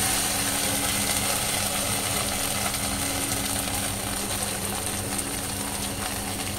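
Steady hiss of paneer, onion and capsicum cooking in a kadai over a gas flame, fading slightly, with a low steady hum under it.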